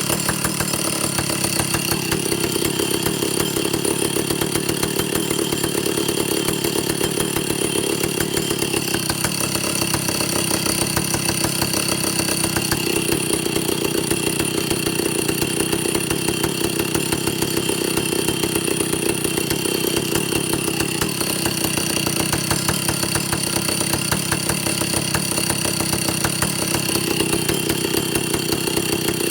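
Vintage Stihl chainsaw's two-stroke engine running at a steady idle on a test run after carburettor and air-leak repairs, its tone shifting slightly now and then.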